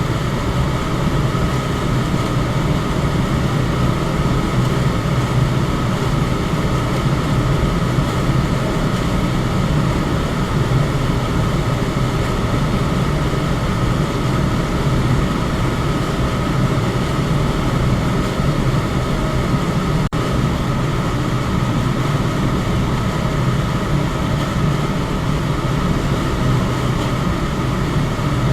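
Electric fan running with a steady, even whoosh of air and a low hum, broken once by a very brief dropout about two-thirds of the way through.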